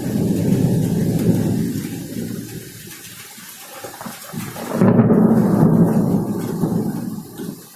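Thunder rumbling in two rolls: one at the start that fades away by about three seconds in, and another about five seconds in that dies down near the end. Rain hisses steadily underneath.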